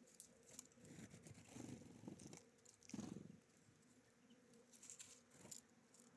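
Faint, scattered tapping and rustling of small birds at a seed feeder, pecking and shifting about, with one stronger rustle about three seconds in.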